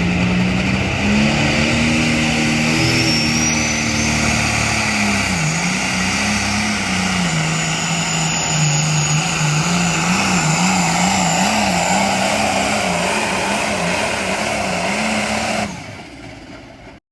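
Pulling tractor's engine running hard. Its pitch climbs about a second in, then holds high while wavering up and down, and the sound drops off sharply near the end.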